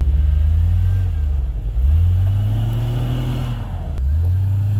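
Jeep Cherokee engine revving under load as the Jeep climbs out of a snowy ditch. The revs rise about two seconds in, drop back, and rise again near the end.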